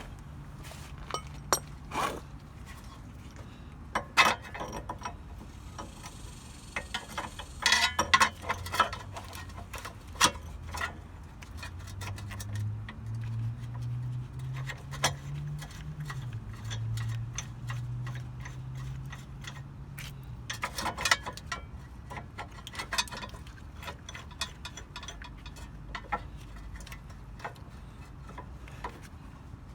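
Hand tools working on a car's front suspension: scattered metal clinks and knocks, with runs of ratchet clicking. A low hum that steps in pitch comes in for several seconds in the middle.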